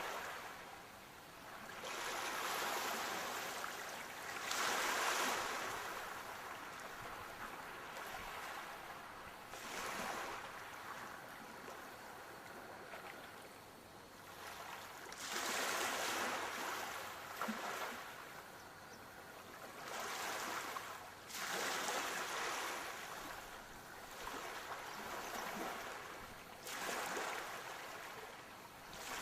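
Sea waves breaking and washing on a shore, the surf swelling and ebbing in surges every few seconds.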